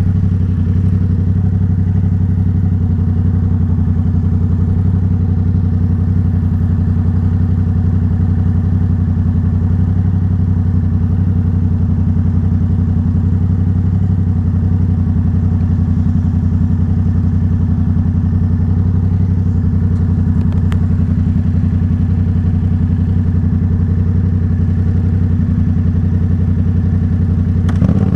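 Yamaha MT-07's 689 cc parallel-twin engine running through an aftermarket Arashi exhaust, holding one steady, loud engine note without revving.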